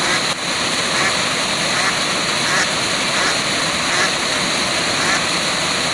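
Steady rushing of a waterfall, with short calls heard faintly over it every second or so.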